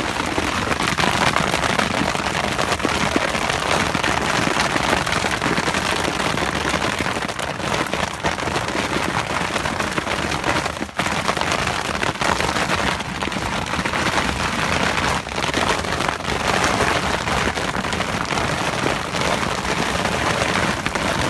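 Rain and hail hitting the shell of a James Baroud Space Evo rooftop tent, heard from inside: a dense, steady patter of countless small impacts with no let-up.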